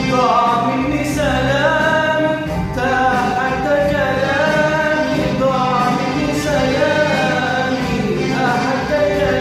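Male vocals singing long, held notes of an Arabic pop song over instrumental backing.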